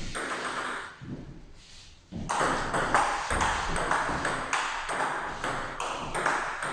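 Table tennis rally: the ball clicking sharply off the bats and the table at about three hits a second, starting about two seconds in after a short quiet pause.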